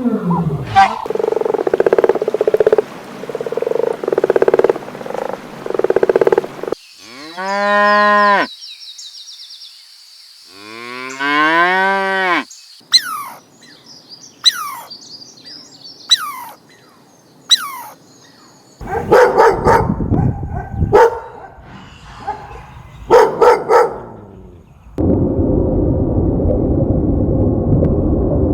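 A run of farm animal calls. In the middle, a cow moos twice, each moo long and rising then falling in pitch. Short repeated calls come before the moos, and high downward-sweeping cheeps and rough, noisy calls follow them.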